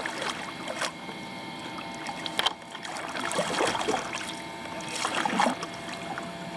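Kayak paddling in shallow water: water splashing and sloshing around the hull, with a few sharp knocks of the paddle or gear against the kayak.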